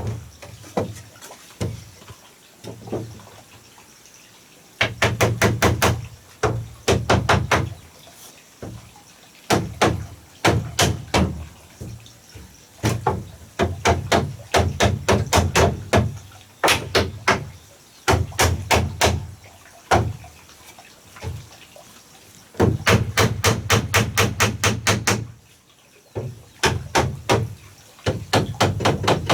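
Rapid knocking, about eight sharp strikes a second, in runs of one to three seconds with short pauses between them.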